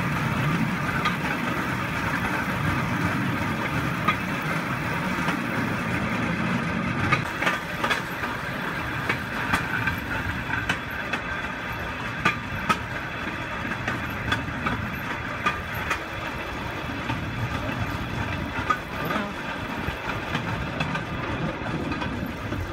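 Steel wheels of a pedal-powered rail bike rolling along railroad track: a steady rumble and rolling hiss, with irregular sharp clicks.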